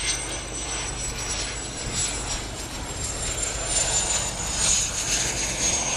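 Embraer Phenom 100E business jet's twin Pratt & Whitney PW617F turbofans on approach: a steady jet whine that slides slowly down in pitch as the jet passes, louder in the second half, over a low rumble.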